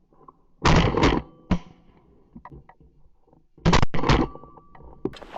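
Shotgun fire in two volleys about three seconds apart, each of several sharp reports close together, loud against the marsh background.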